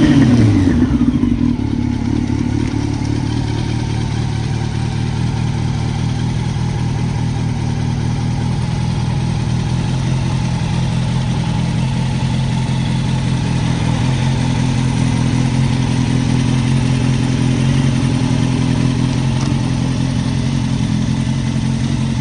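Honda CB750 (RC42) air-cooled inline-four through a Moriwaki titanium muffler, falling back from a rev in the first second, then idling steadily.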